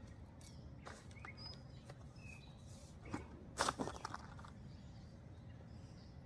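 Scattered clicks and knocks from handling the steel frame parts, legs and bolts of a trampoline being assembled, with a louder clatter about three and a half seconds in.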